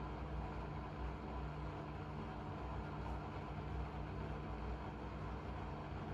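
Blomberg fuzzyDigitronic Granat 3200 washing machine running, a steady motor hum with a few held tones and no breaks or knocks.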